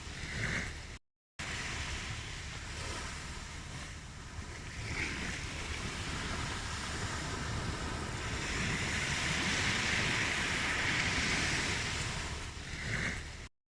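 Ocean waves washing onto a shore, a steady surf that swells louder in the latter half and eases off again. The sound cuts out completely twice for a moment, about a second in and at the very end.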